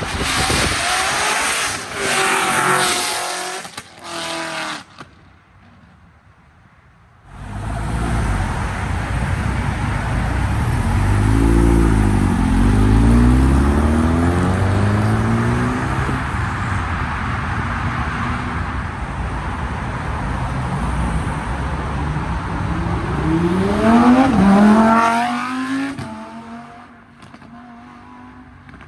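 Sports car engines revving and driving off. Engine pitch falls and rises again in the middle, then climbs steeply near the end as a car accelerates, over a steady rush of engine and road noise.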